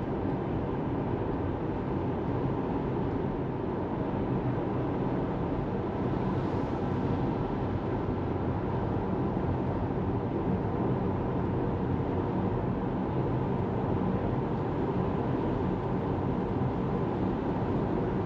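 Steady road and tyre noise of a Tesla Model 3 driving along, with no engine sound.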